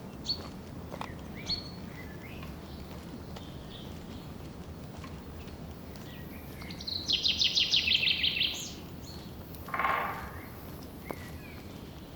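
Forest birds calling: scattered short chirps, then a loud rapid trill lasting about two seconds, about seven seconds in, and a brief harsh call near ten seconds, over a steady low background hiss.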